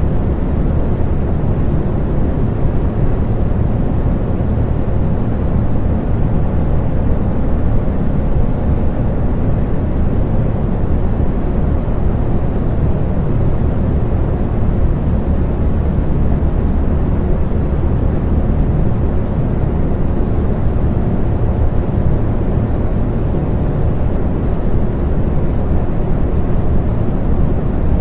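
Electric fan running steadily, a deep, even whooshing drone with a low hum underneath.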